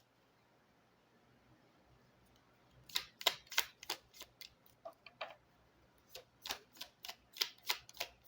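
Baralho cigano (Lenormand) cards being handled and shuffled: after about three seconds of quiet, a quick irregular run of sharp card snaps and clicks.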